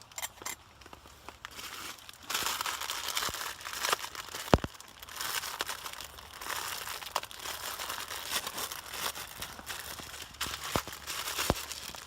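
Plastic wrapper of an instant ramen noodle packet crinkling and rustling in bursts as it is opened and handled, with a few sharp clicks.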